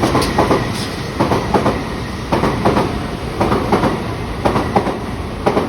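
Shinkansen bullet train pulling out of the station past the platform: a steady rush with its wheel sets knocking over the rail joints in pairs, about once a second, as each car passes.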